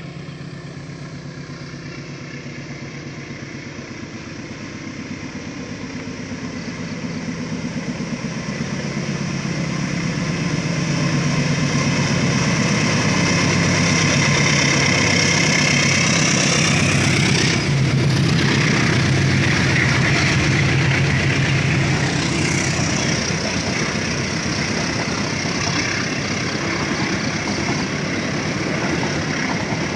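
Diesel locomotive of a KAI passenger train climbing a grade, its engine running hard and growing louder as it approaches, loudest as it passes close about halfway through, then the steady rumble and rattle of the coaches rolling by on the rails.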